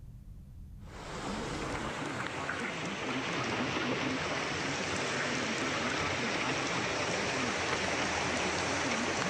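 Steady rushing of water from flood footage, starting about a second in and growing a little louder.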